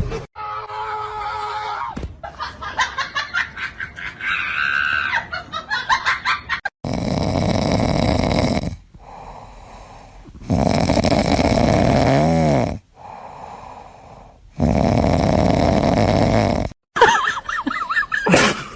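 A pet snoring loudly, with three long snores about four seconds apart in the second half. Before them come shorter, rapidly pulsing breathing sounds.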